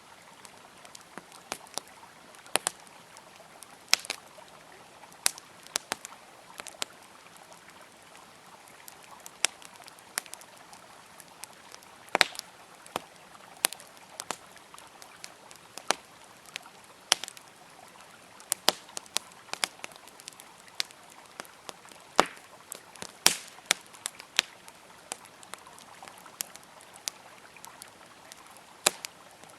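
Wood campfire crackling, with irregular sharp pops and snaps, some louder ones, over a steady rush of flowing river water.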